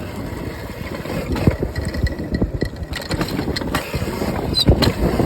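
Ride on a modded 36-volt Razor electric dirt bike: a steady rush of wind noise with many short knocks and rattles throughout, and a faint thin whine about halfway through.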